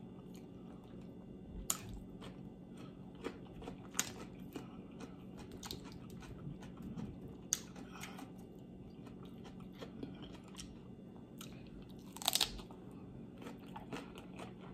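Close-miked chewing and crunching of raw vegetables, cucumber and broccoli, with scattered soft crisp clicks and one louder crunch about twelve seconds in.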